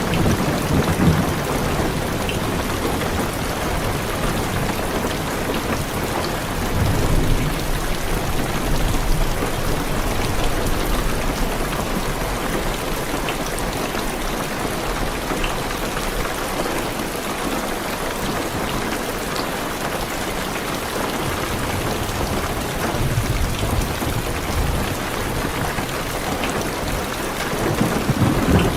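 Heavy rain beating steadily on a car's roof and windows, heard from inside the car, with deep thunder rolling in low rumbles several times, strongest near the start and the end.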